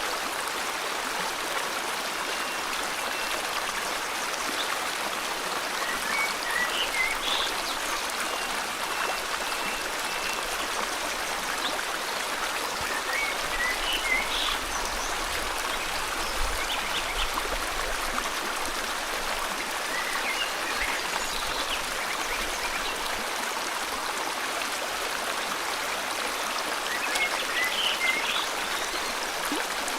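River water flowing steadily, with short groups of bird chirps about every seven seconds.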